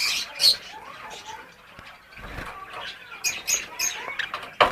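Java sparrows chirping in many short, high calls. A sharp click comes near the end.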